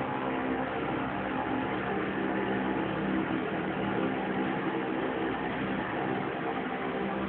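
Small motorbike engine running at a steady speed, a constant hum with no revving.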